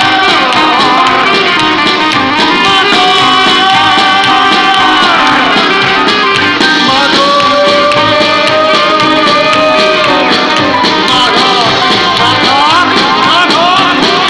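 Live band playing an instrumental passage of a song: long held melody notes that slide between pitches over a steady full accompaniment.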